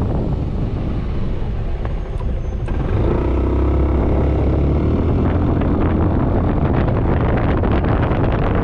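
Riding noise on a Suzuki Burgman 400 scooter in traffic: wind rushing over the microphone and a motor vehicle engine drone. About three seconds in, the engine drone becomes louder and steadier.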